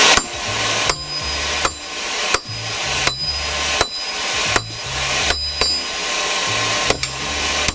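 Hand hammer striking hot steel on an anvil in a steady rhythm, about ten blows at roughly one every 0.7 seconds, each with a short metallic ring.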